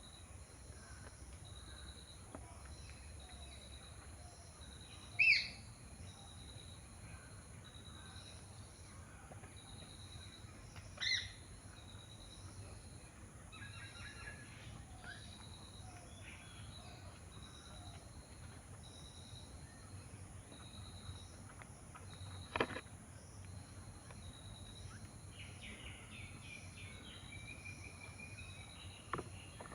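Bird-feeding ambience with a steady high insect hiss and a pulsing insect trill. Two short, loud bird calls come about five and eleven seconds in, a sharp click about 22 seconds in, and a bird twitters near the end.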